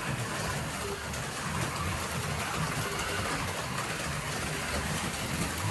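Several HO-scale slot cars running laps together, their small electric motors making a steady whir over the track.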